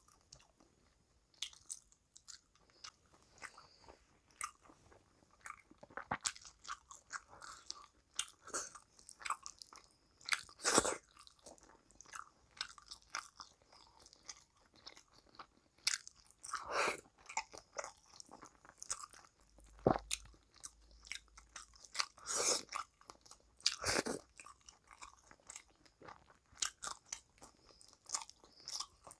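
Close-miked eating of rice and curry taken by hand: chewing, biting and crunching mouthfuls as irregular sharp mouth sounds, with a few louder bites spread through.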